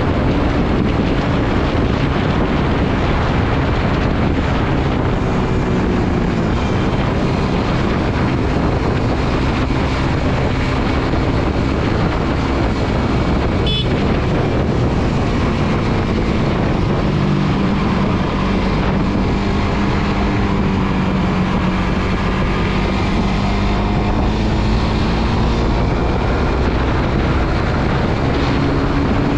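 Suzuki GSX-R150's single-cylinder engine running while riding, with heavy wind noise on the microphone. The engine pitch drops, holds steady and rises again as the speed changes, with a short sharp sound about fourteen seconds in.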